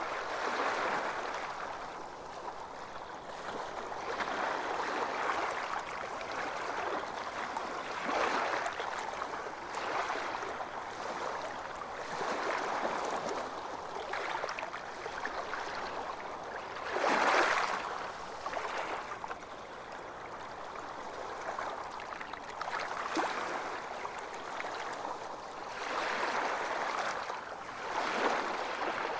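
Ocean waves washing onto a beach, a steady wash of surf that swells and ebbs every few seconds, with one louder wave breaking about 17 seconds in.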